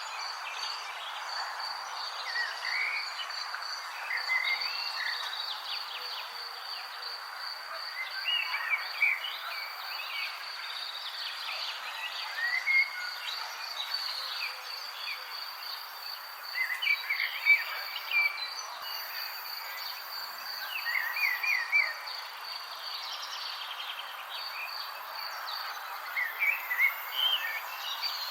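Nature ambience: a steady, evenly pulsing high insect trill like a cricket's, over a soft background hiss, with birds giving short chirps every few seconds.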